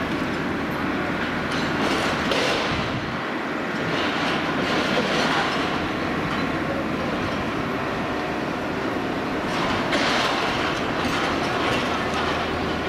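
A train rolling along the rails: a steady rumble with wheel clatter and a few metallic clanks.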